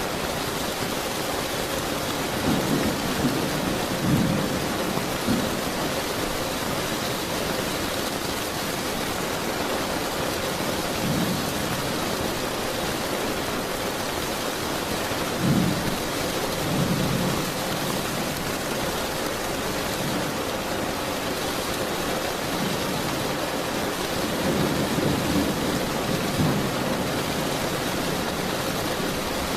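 Steady heavy rain with rolls of thunder rumbling low several times: around 3 to 5 seconds in, near 11, 15 to 17 and 25 to 27 seconds.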